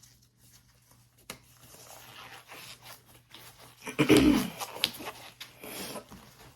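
Disposable examination gloves rustling and stretching as they are pulled onto the hands, with a sharp click about a second in. About four seconds in comes a short, louder sound that falls in pitch.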